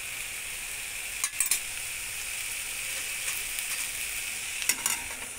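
Onion, tomato, garlic and cashew masala sizzling steadily in oil in a pan, stirred with a metal spoon. The spoon clatters briefly against the pan about a second and a half in and again near the end.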